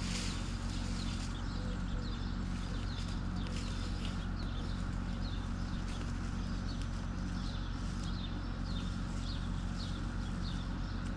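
Bobcat 773 skid steer's diesel engine running steadily, with a light clicking repeating a few times a second.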